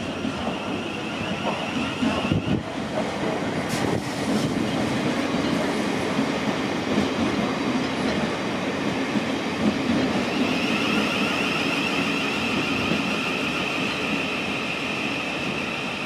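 Thameslink Class 700 electric multiple-unit train running along the platform: steady rumble of wheels on rail, a few clicks over the rail joints, and a steady high-pitched whine that grows stronger about two-thirds of the way through.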